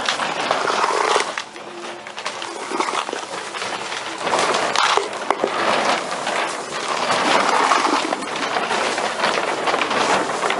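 Rustling and crinkling of the AquaDam's plastic sheeting as it is pulled and handled, coming in uneven surges with small crackles.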